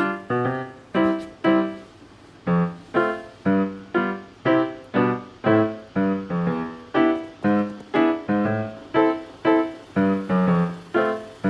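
Background piano music: a light melody of short, separately struck notes, roughly two a second.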